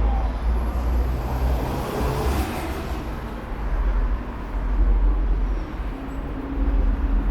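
Road traffic on a busy city street: a steady low rumble of passing vehicles, with one vehicle's hiss swelling and fading about two to three seconds in.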